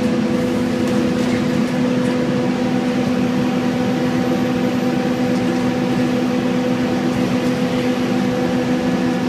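Scania N230UD double-decker bus's diesel engine running at a steady speed, a constant hum that neither rises nor falls.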